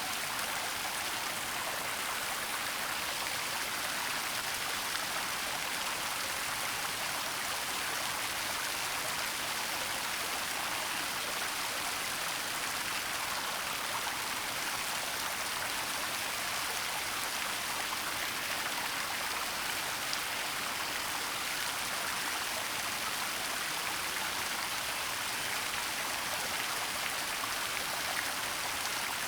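Waterfall in a forest: water falling and running in a steady, even hiss.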